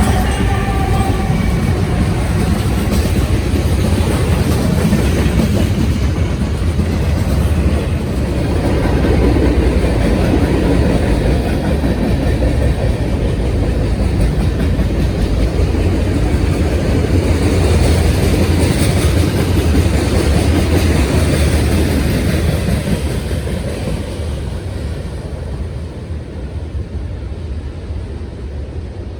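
A train passing on the main line: a loud, steady rumble and rattle of wheels on rail, with some clickety-clack, that fades away over the last few seconds as it moves off.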